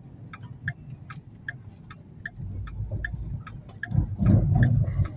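Car turn signal clicking steadily, two to three clicks a second, over low road noise. About four seconds in, a low rumble of tyres on a brick road grows and becomes the loudest sound.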